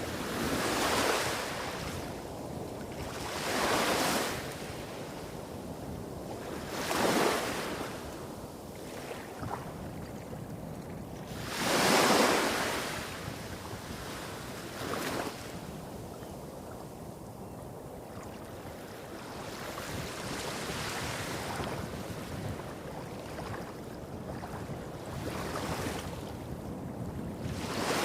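Small waves breaking on a beach, one swash every three to five seconds, the loudest about twelve seconds in. Under them runs a steady low rumble of surf hitting rocks further along the shore.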